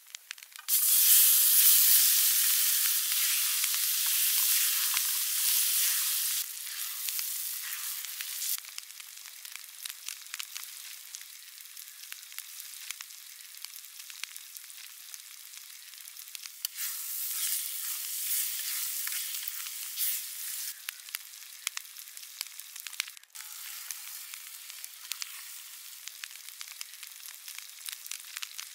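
Chopped tomato and onion hitting hot oil in an iron kadai: a sudden loud sizzle just under a second in that holds for about six seconds, then fades to a quieter frying crackle with small pops and ticks. The sizzle swells again for a few seconds a little past the middle.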